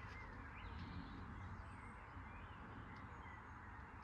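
Faint bird chirps over a steady, low background rumble.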